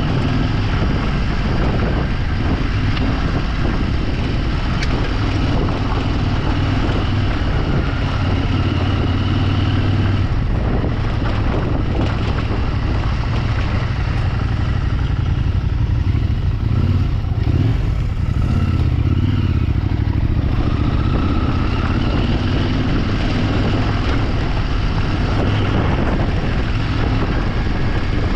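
Motorcycle engine running under way off road. Its note rises and falls with the throttle, over a constant noise of wind and terrain.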